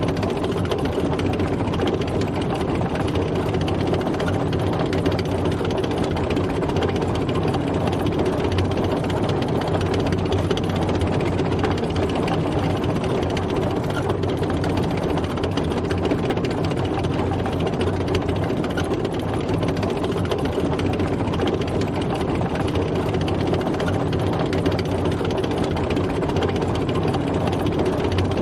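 Tank driving, its engine running steadily under a dense, even mechanical rumble.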